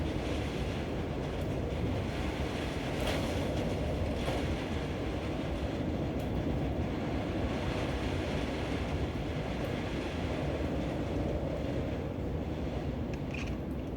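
Steady low rumble of strong wind, with a few faint clicks over it.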